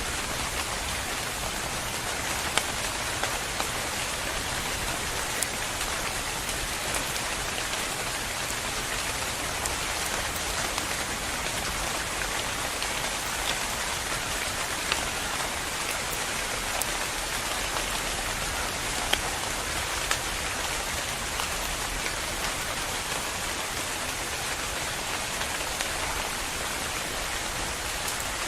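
Steady rain falling: an even hiss with scattered louder drop impacts now and then.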